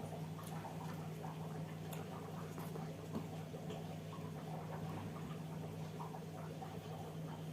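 Close-up chewing and mouth sounds of someone eating: small, irregular wet clicks and smacks over a steady low hum.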